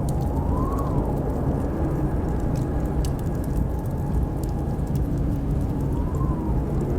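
Blizzard wind blowing with a steady low roar, twice rising into a whistling howl that climbs and falls in pitch, over the scattered crackle of a wood fire in a fireplace.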